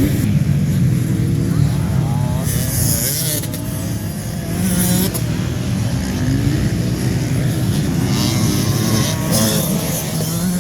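Several motocross bikes racing round the track, their engines revving up and down through the gears as they pass.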